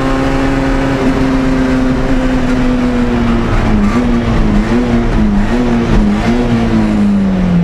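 Citroën Saxo A6 rally car's 1.6-litre four-cylinder engine heard from inside the cockpit, pulling hard at high revs with a steady note. The note wavers up and down a few times midway and falls away near the end as the car slows.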